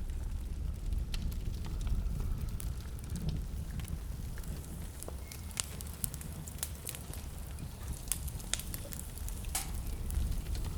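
Wood fire crackling in a fireplace: irregular sharp snaps and pops, several a second at times, over a steady low rumble.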